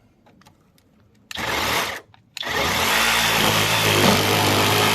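Electric jigsaw motor, a Onevan, triggered for a short burst. It stops briefly, then starts again and runs steadily at a constant pitch.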